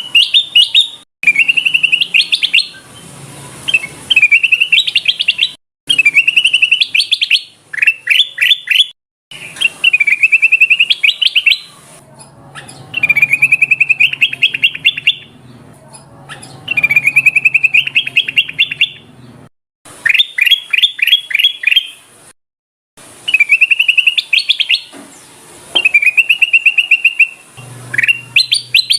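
Kutilang emas, a bulbul, singing a repeated song, recorded for use as a bird-trapping lure call. Each phrase is a quick run of bright whistled notes lasting a second or two, and the phrases come every two to three seconds with short gaps between them.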